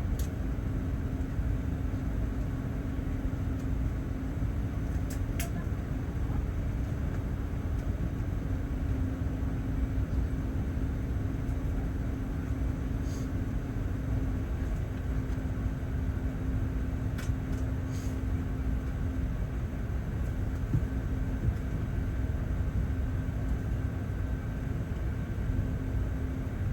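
Steady cabin noise inside an Airbus A380 waiting before departure: an even rush of air from the ventilation, with a steady low hum and a few faint clicks.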